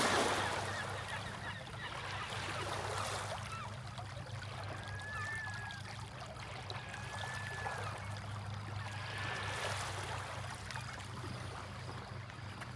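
Creek water running steadily, swelling louder briefly at the start and again near the end, with three short high whistles about two seconds apart in the middle.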